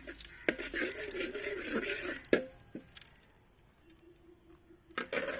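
Curry leaves sizzling and spluttering in hot coconut oil in a pan, dying down about halfway through and flaring again near the end, with a couple of sharp knocks, the louder one about two seconds in.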